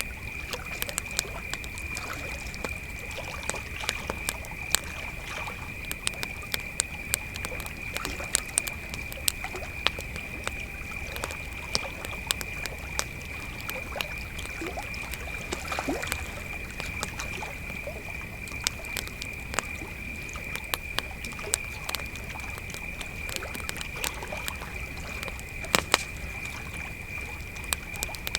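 Steady high chirring of a cricket chorus, with a campfire crackling and popping irregularly over it; one sharper pop comes near the end.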